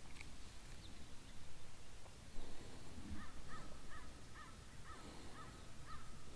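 A bird calling: a run of about eight short, evenly spaced notes, a little over two a second, beginning about three seconds in. A brief low knock comes just before the calls start.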